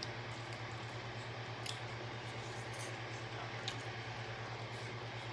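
Faint eating and mouth sounds close to the microphone, with a couple of small sharp clicks, over a steady low electrical hum.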